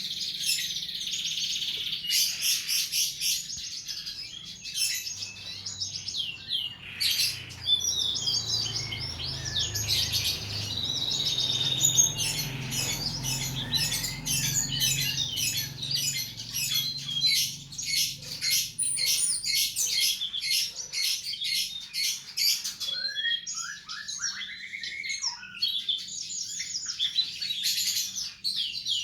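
Songbird song used as masteran tutor recording: a dense, fast run of varied high chirps and trills, with a few falling whistled notes about three-quarters of the way through.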